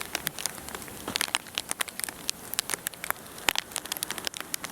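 Dense, irregular crackling and ticking of ice, typical of freezing rain falling on ice-glazed branches and ground during an ice storm.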